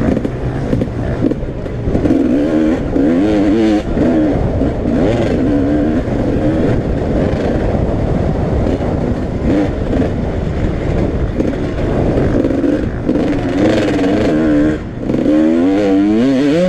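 Several motocross bikes racing, their engines revving up and falling back over and over as they power round the track.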